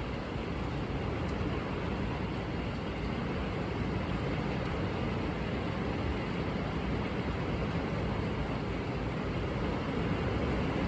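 Storm wind blowing steadily, a low rushing noise that swells slightly toward the end.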